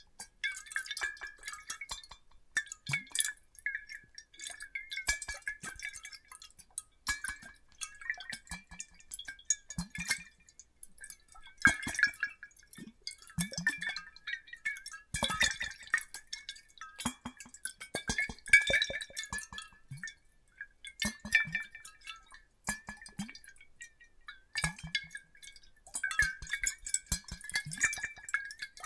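Glass clinking and ringing in irregular clusters, with short water plops and drips: water and glass bottles shaken and tapped for layered ASMR sound.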